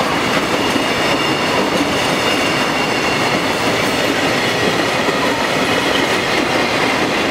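Container freight train's wagons rolling past at speed close by: a loud, steady rumble of steel wheels on the rails.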